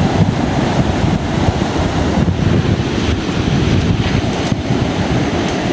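Wind buffeting the microphone over surf breaking on a beach: a steady, loud, low rushing noise with no pauses.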